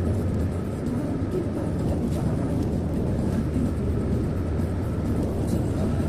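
Steady road noise inside a moving car's cabin: a continuous low rumble of tyres and engine.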